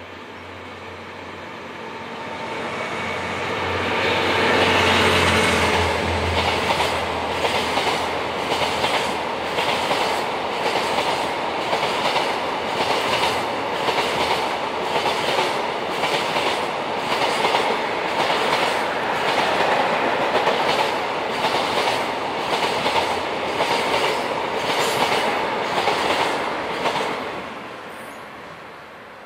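DF200 diesel-electric locomotive passing at speed. Its engine note builds to a peak about five seconds in. It is followed by a long freight train of container wagons whose wheels clatter over the rail joints in a steady, even rhythm. The sound fades as the last wagon goes by, near the end.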